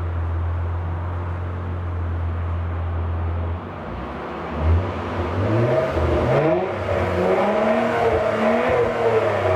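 Exhaust of a Honda Elysion Prestige's 3.5-litre V6 with a straight-through mid-section pipe, idling with a steady low drone, then revved several times from about four seconds in, the pitch rising and falling with each rev.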